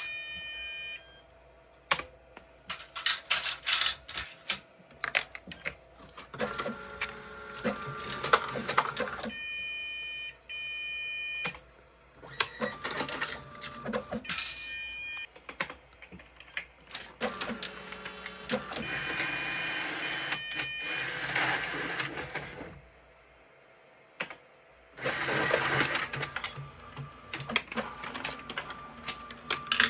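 Toshiba TEC automatic change machine at work: repeated bursts of clicking and rattling from its coin and note mechanisms, several seconds each. Steady electronic tones sound in between, with a couple of short quiet gaps.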